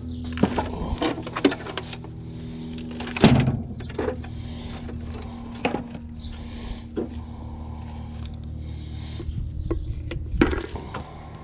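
Scattered knocks, clanks and rattles of junk being handled while picking through it for scrap metal, the loudest about three seconds in and again near the end, over a steady low hum.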